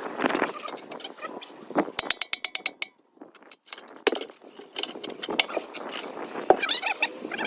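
Hand ratchet clicking in quick runs of evenly spaced clicks, with scattered metal knocks and clanks between them.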